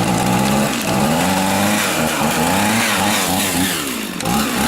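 An engine running at a steady speed, then revved up and down repeatedly from about a second in.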